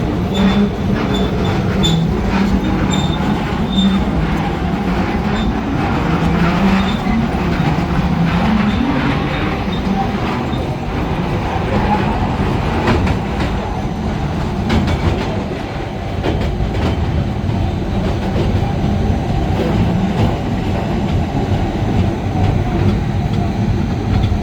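A train running, heard on the ride: a steady rumble with the wheels clicking over the rail joints and a faint squeal in the first few seconds.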